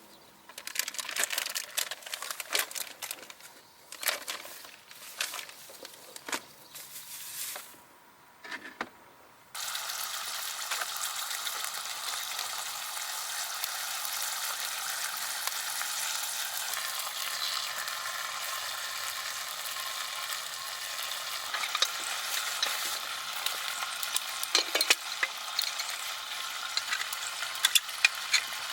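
Food sizzling in a hot pan. A few seconds of clicks and knocks come first, then the sizzling starts suddenly about a third of the way in and runs steadily, with sharp crackles and pops growing more frequent near the end.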